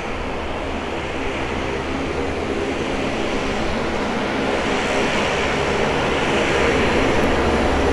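Aircraft engines running, a steady drone with low even tones that grows slowly louder as the aircraft comes closer.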